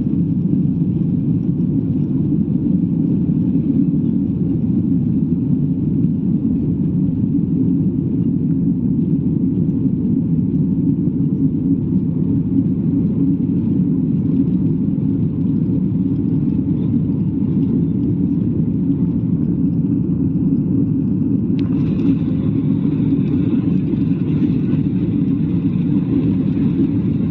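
Airliner cabin noise: the steady deep drone of jet engines and airflow heard from a passenger seat in flight. About 22 seconds in, a higher hiss with faint tones joins suddenly.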